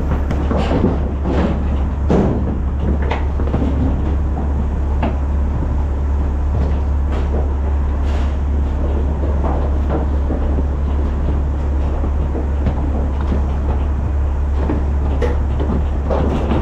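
A truck engine running steadily at a low rumble, with irregular knocks and clanks scattered over it.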